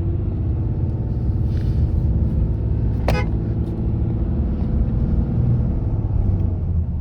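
Steady low rumble of a truck on the road, heard from inside the cab, with one sharp click or knock about three seconds in.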